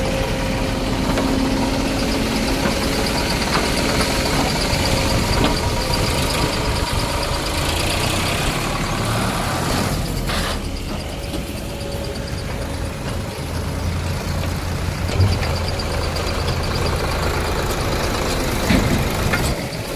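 Heavy diesel machinery engines running steadily, with a few knocks and a brief change in the sound about halfway through.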